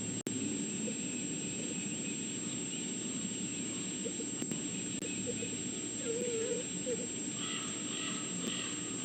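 Steady outdoor background noise with a constant high-pitched whine, and a short wavering animal or bird call about six seconds in, followed by a faint repeated call near the end.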